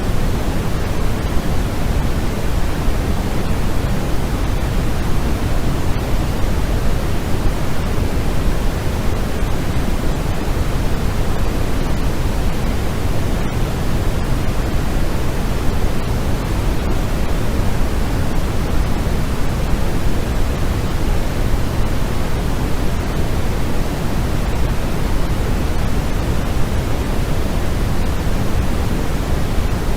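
Steady electronic white-noise sleep sound: a constant, even hiss that never changes, fuller and heavier in the low end than in the highs.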